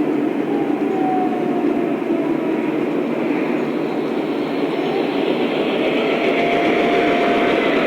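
Lionel O-scale model train running on track: a steady rumble of wheels and motors with a faint thin whine, growing a little louder near the end.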